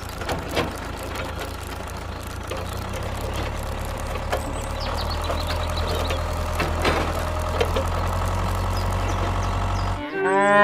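An engine running steadily with a low hum, growing slowly louder, then cutting off abruptly near the end.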